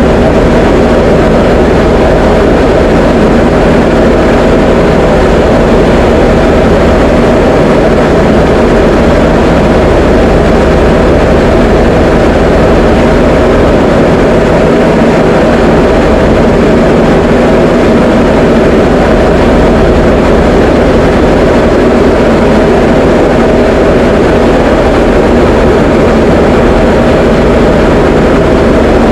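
Diamond DA20 light aircraft's piston engine and propeller running steadily in flight: a loud, constant drone with no change in pitch.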